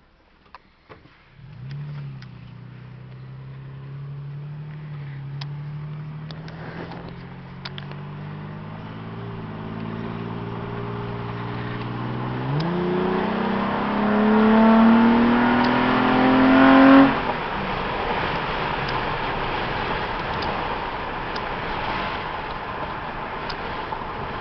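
2008 Toyota Tacoma pickup with a URD cold air intake and JBA exhaust accelerating: the engine note climbs slowly, jumps up in pitch about halfway through and rises harder to its loudest point. It then drops away suddenly, leaving steady road and wind noise as the truck cruises.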